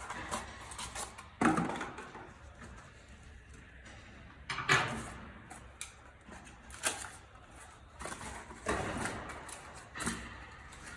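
Objects being handled and set down: about five separate knocks and rustles a second or two apart.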